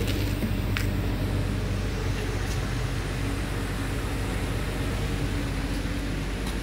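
2011 Subaru Legacy's 3.6-litre flat-six engine idling steadily.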